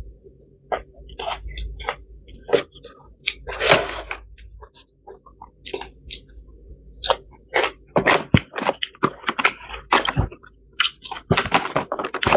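A person chewing and crunching food, with many short, irregular crunches and mouth sounds.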